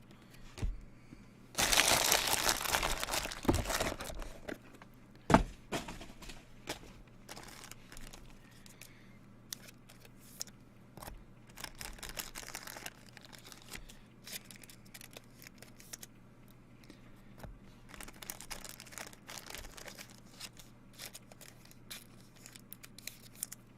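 Plastic card packaging and wrappers crinkling as trading cards are handled. A loud burst of crinkling and tearing comes about two seconds in, then scattered small clicks and a fainter rustle near the end.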